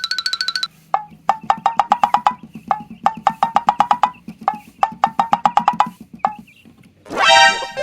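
Cartoon-style sound effect of quick wood-block-like pitched taps, in several runs of about a second each with short gaps, ending with a fast rising swoop.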